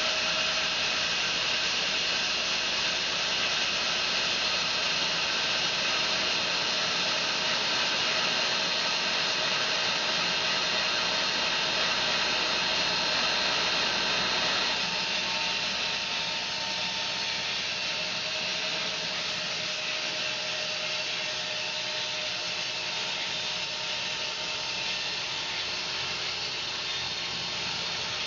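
Home-built bandsaw mill running, its band blade sawing through a fir log with a steady whirring hiss. About halfway through, the sound drops a little and turns less bright.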